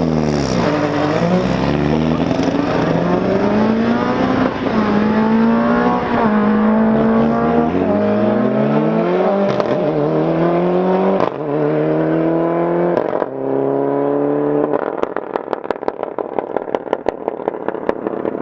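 BMW E30 rally car engine heard from inside the car, pulling hard with its pitch climbing and dropping again and again as it accelerates and shifts gear. Near the end the engine note fades and a rapid crackle of clicks takes over.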